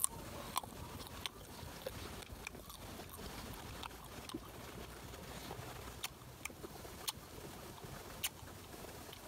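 A crisp bite into a green June plum, then chewing with irregular sharp crunches about every half second to a second, the last loud one near the end.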